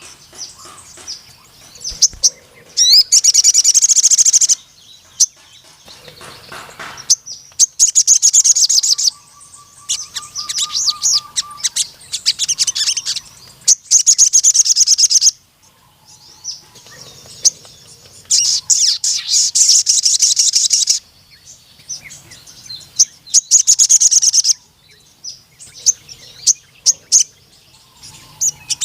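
Crimson sunbird singing in full song: repeated bursts of rapid, high-pitched trilling, each one to three seconds long, with short chirps in the pauses between.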